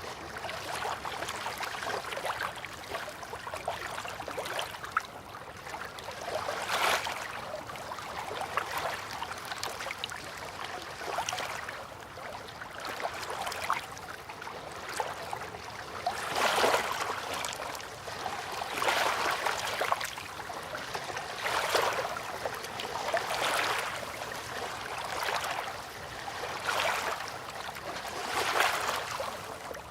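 River water lapping, a steady wash with small waves swelling every two or three seconds.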